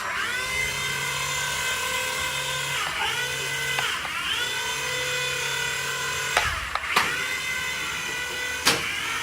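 Mini remote-control helicopter's electric rotor motor spinning up with a rising whine, then holding a steady high-pitched whine that dips in pitch twice and climbs back as the throttle is eased and raised. A few sharp knocks come in the last few seconds.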